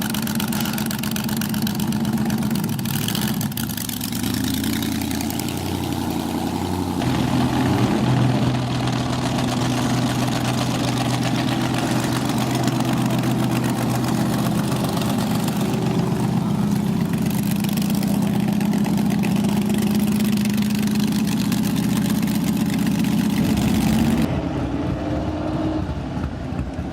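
Vintage race car engines running, mostly at a steady idle with some revving. The engine note changes abruptly about seven seconds in and again near the end.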